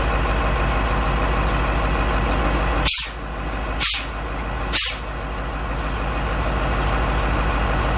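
Dump truck engine idling steadily, with three short loud hisses of compressed air from the air brakes about a second apart as the brake pedal is pumped to bleed down system pressure so the governor cuts the compressor back in.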